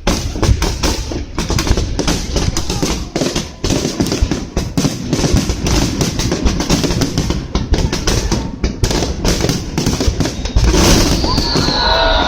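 Fireworks going off in rapid, overlapping bangs and crackles. A long falling whistle joins near the end.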